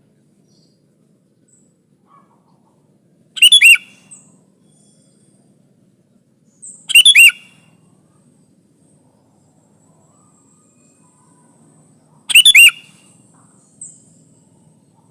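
Sooty-headed bulbul calling: three short, loud bursts of quick chirping notes a few seconds apart, with a few faint notes between them.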